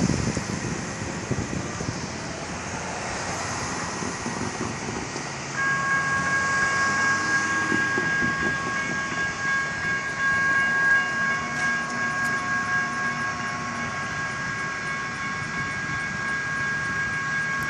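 Sacramento RT Gold Line light rail train running on the track. About five seconds in, the grade-crossing warning bell starts ringing steadily as the signals activate for a train.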